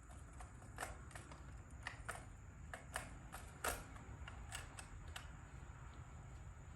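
Faint, scattered light clicks and taps, about a dozen spread irregularly, over a low steady hum.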